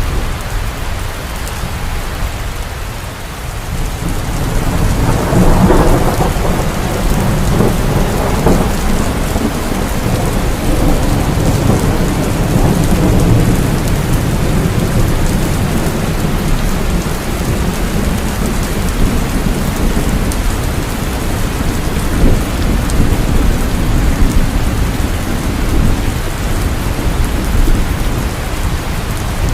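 Heavy rain falling steadily, with thunder rumbling. A roll of thunder swells about five seconds in and keeps rumbling low under the rain.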